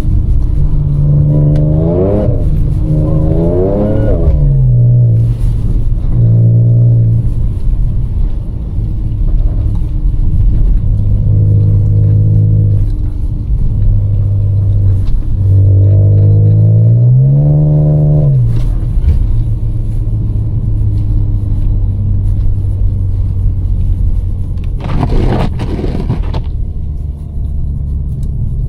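Supercharged 3.0 V6 of a Stage 1 tuned Audi S5 with the resonator deleted, accelerating hard several times. The pitch climbs and drops back with each shift, with steady cruising in between, over a constant low road rumble. A brief rushing noise comes about 25 seconds in.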